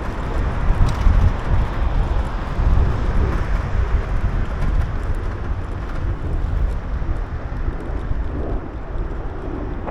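Steady, loud rumble of wind and road noise picked up while riding a bicycle along a city street, with passing traffic mixed in.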